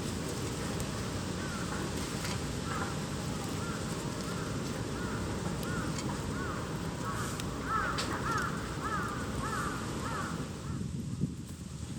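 A bird calling over and over in short notes that rise and fall, the calls getting louder and closer together before stopping near the end. Under them runs a steady low rumble with a few faint clicks.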